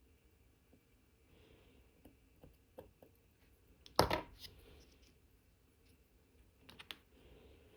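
Small tools and watch parts clicking and tapping on a watchmaker's bench: scattered faint ticks, one louder sharp clack about four seconds in, and a quick cluster of clicks near the end.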